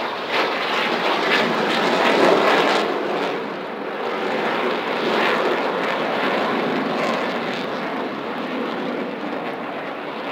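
Jet noise of Blue Angels F/A-18 Hornets flying past, a broad roar loudest about two seconds in, swelling again briefly and then slowly fading.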